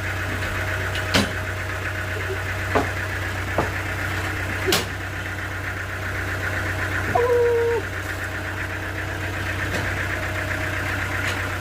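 Sawmill engine running steadily at idle, with a few sharp knocks scattered through and a brief steady tone about seven seconds in.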